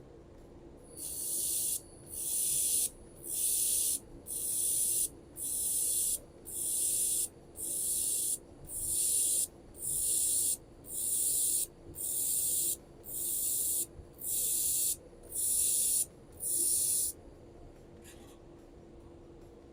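Handheld laser welder running on aluminium filler wire, switching on and off in fourteen short, even hissing bursts about one a second, a weld laid in stitches. A steady low hum runs underneath.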